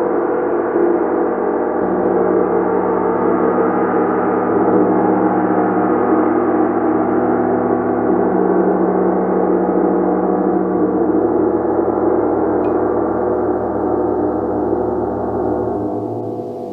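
Gong played in a sustained wash of many overlapping ringing tones. Near the end it begins to fade and the lowest hum drops away as it is left to ring out.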